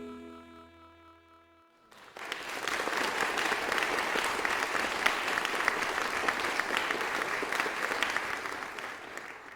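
Applause: many hands clapping in a dense patter. It starts suddenly about two seconds in, after the last of a song fades out, and dies away at the end.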